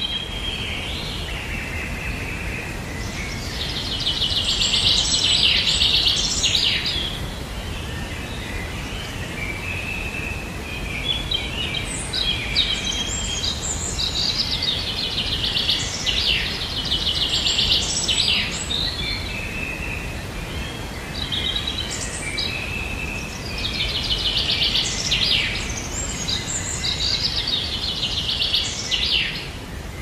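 Birds singing and calling, with rapid high trills coming in three louder stretches over a steady low background rumble.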